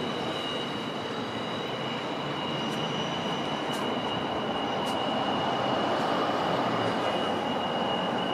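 A train moving over the station tracks: a steady rumble that grows louder in the second half, with a thin, steady high squeal running throughout, typical of wheel flanges on curved track.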